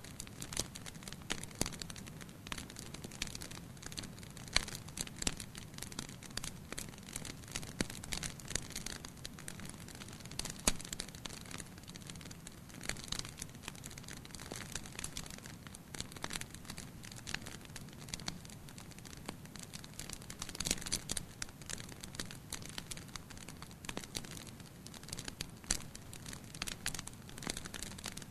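Wood fire burning in a fireplace, crackling and popping with many small irregular snaps over a low steady rush of flame.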